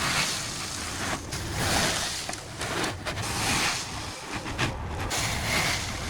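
Delivery truck's engine running with a steady low hum, under loud surges of rushing noise that rise and fall about once a second.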